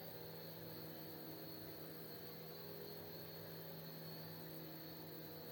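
A steady low hum with a faint high whine above it, unchanging throughout.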